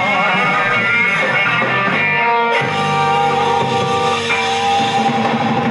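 Live rock band playing, electric guitar to the fore with no vocals; from about two and a half seconds in, the guitar and band settle into long, steady held notes.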